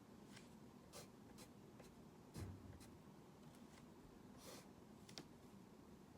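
Faint, short scratching strokes of a drawing tool on a drawing surface, about eight of them spaced irregularly, with one louder stroke and a dull knock about two and a half seconds in.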